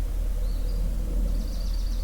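Songbirds at dawn: a short up-slurred high whistle about half a second in, then a rapid trill of evenly repeated high notes starting past the middle, over a steady low rumble.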